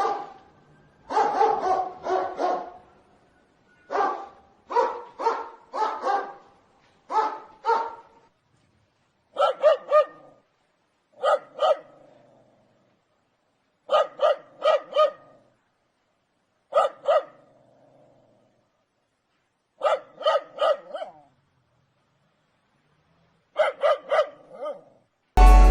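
Dogs barking in bursts of two to four barks with short pauses between them. About nine seconds in, the barking changes to a higher, sharper bark repeated in even clusters every two to three seconds. Music comes in just before the end.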